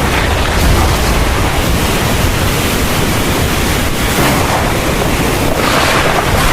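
Heavy rain pouring steadily, swelling briefly a couple of times.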